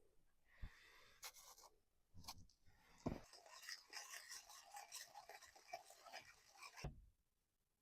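Faint irregular scratching and rustling with a few soft knocks, stopping abruptly about seven seconds in.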